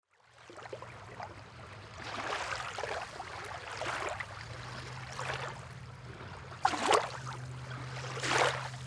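Sea water splashing and washing in repeated surges, over a steady low hum.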